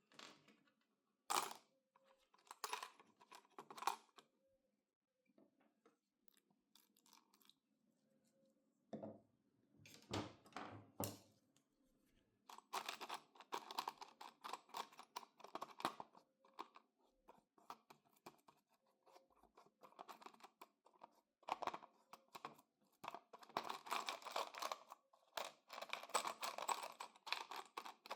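Hand work on the iron's metal parts: bursts of quick, scratchy rubbing or scraping strokes, with a few sharp knocks in between and quiet pauses.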